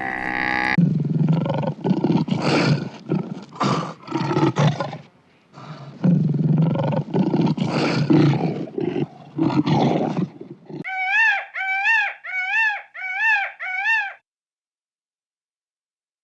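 A large animal roaring and growling in rough, loud bouts for about ten seconds. Then a different animal gives short, high, rising-and-falling calls about twice a second. These stop abruptly, and the sound cuts to silence.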